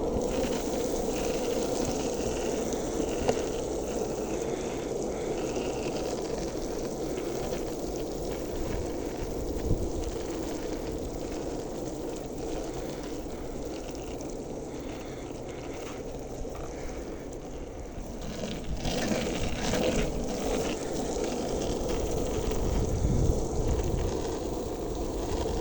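Steady rushing outdoor noise with a low rumble that swells louder near the end.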